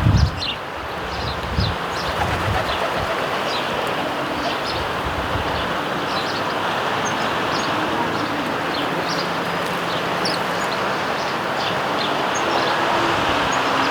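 Sparrows chirping repeatedly in short, scattered notes over a steady background rumble.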